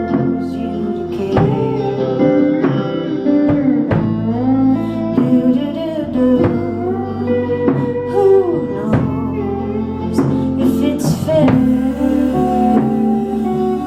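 Live rock band playing a song: guitar and bass with drum hits on a steady beat and a singer's voice gliding over them.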